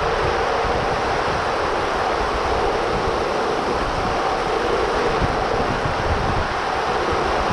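Heavy rain pouring down in a strong wind, with gusts buffeting the microphone: a steady, loud rushing hiss.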